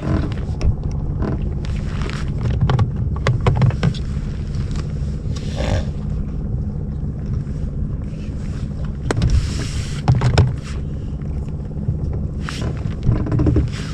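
Small boat moving over choppy water: a steady low rumble with irregular knocks and splashes from the hull on the waves.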